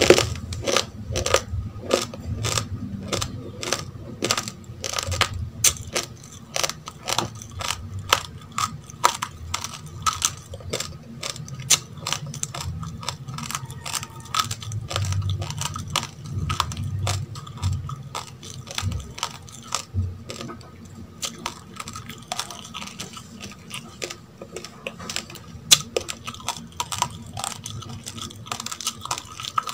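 Close-up chewing of a mouthful of uncooked rice: rapid crisp cracks of the hard grains breaking between the teeth, about three or four a second, thinning out to scattered cracks in the second half.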